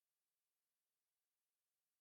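Near silence: a silent soundtrack with only a very faint hiss.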